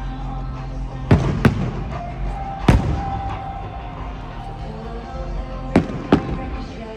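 Fireworks display: aerial shells bursting in five sharp bangs, two close together about a second in, one near three seconds, and another close pair near the end, over continuous music.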